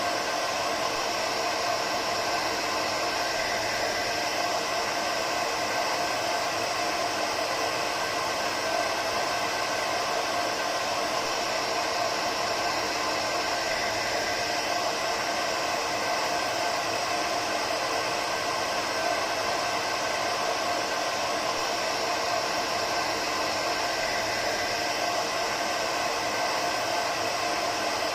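Hair dryer running continuously at a steady setting: an even rushing airflow with a faint motor hum in it, unchanging throughout.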